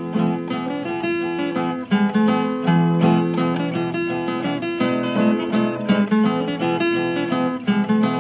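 Acoustic guitar playing an instrumental break between verses of a country song, notes picked and strummed in a steady rhythm.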